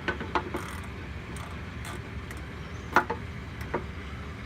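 A few sharp clicks and knocks of hand work at the truck's brakes, at uneven intervals, over a steady low rumble.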